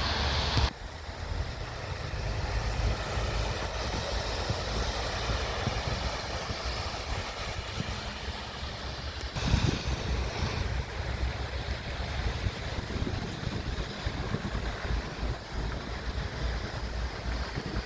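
Truck road noise: a steady low rumble and rushing hiss, with wind buffeting the microphone. The sound drops abruptly under a second in and steps up again about nine seconds in.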